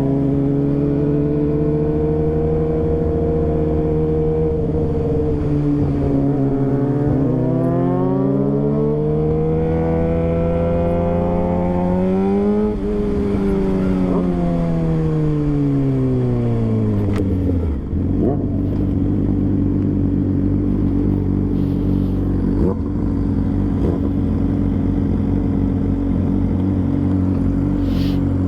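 Suzuki GSX-R600 (Gixxer 600) inline-four engine under way: it runs steady, then climbs in pitch for about six seconds as it revs up, winds back down over the next five, and settles into a steady low note for the last ten seconds.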